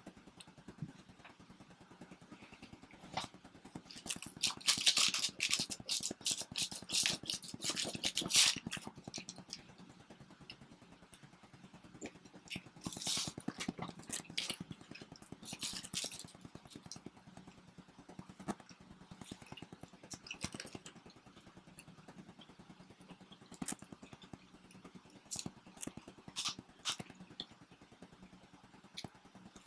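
People biting and chewing homemade pizza, in crackly clusters of bites with scattered small clicks and scrapes in between, over a faint steady hum.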